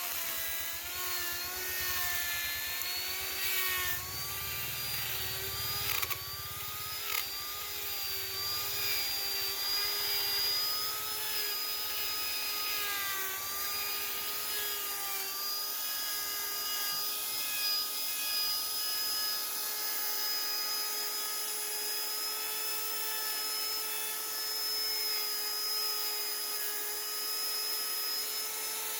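A small high-speed electric rotary carving tool cutting wood with a steady whine. Its pitch wavers as it bites into the wood over the first half, then holds steady, with a couple of short clicks about six and seven seconds in.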